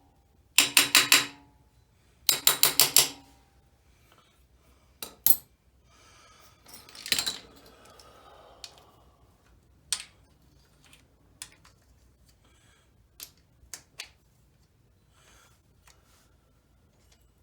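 Two quick bursts of light, rapid taps, four or five in each, on the stator cover of a 1994 Yamaha Moto-4 350 ATV engine to break it loose from the crankcase. Scattered single metal clicks and a short rattle about seven seconds in follow.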